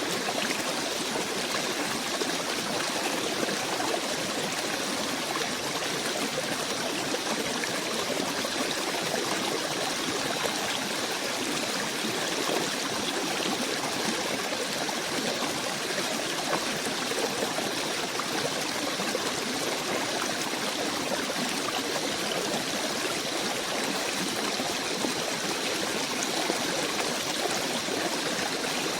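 A small stream running steadily, an even rush of flowing water with no breaks.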